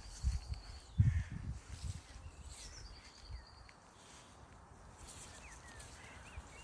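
Small birds calling: thin high notes and short chirps, with a few dull low thumps in the first two seconds.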